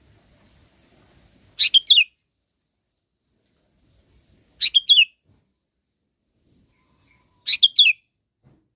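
Sooty-headed bulbul calling: three short phrases of two or three quick notes each, about three seconds apart. It is a lure call that draws other bulbuls to answer.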